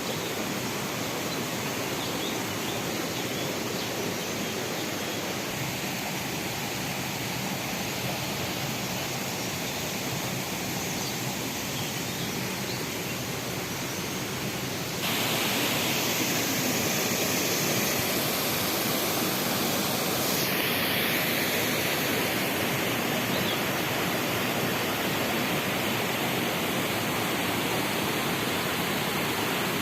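Steady rushing of water from small waterfalls and cascades at a spring. It grows abruptly louder about halfway through, and its character shifts again a few seconds later.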